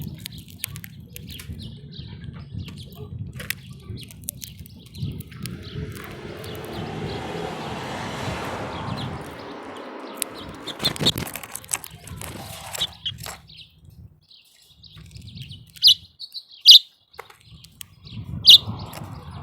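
Small songbirds at a feeder chirping and tweeting in short high calls, with a few loud sharp chirps near the end. A rushing noise swells and fades in the middle, and there are a few sharp clicks.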